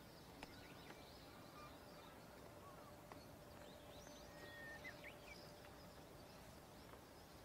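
Near silence with faint, scattered bird chirps, busiest about halfway in.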